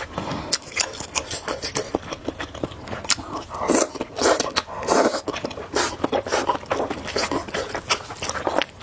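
Someone slurping and chewing spicy noodles: many short wet mouth clicks and smacks, with louder slurps about halfway through.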